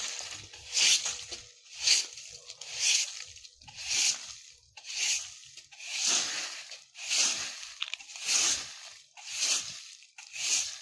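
Broom sweeping dry leaves on the ground in steady strokes, about one rustling swish a second.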